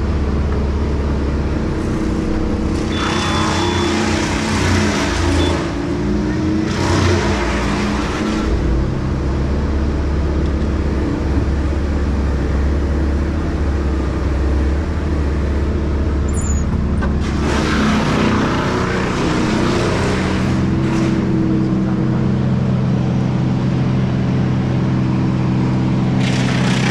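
Diesel engine of heavy equipment running steadily, its pitch shifting now and then as the load changes. Several bursts of rushing noise lasting a couple of seconds each sound over it, about three and seven seconds in, again from about seventeen seconds, and near the end.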